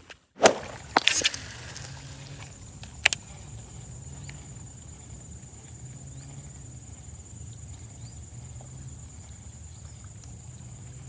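A few sharp clicks and knocks in the first three seconds, then a steady high-pitched insect drone over a faint low hum.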